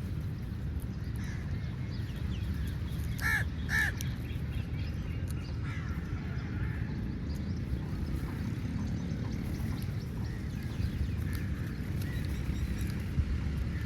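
Crows cawing: two loud caws in quick succession a few seconds in, then fainter caws from other crows, over a steady low rumble.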